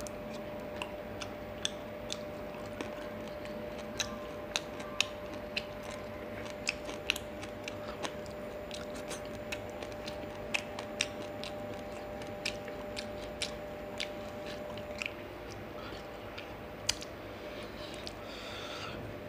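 A person eating fish and rice by hand, close to the microphone: chewing with irregular sharp wet clicks and smacks, a few of them much louder, over a steady faint hum.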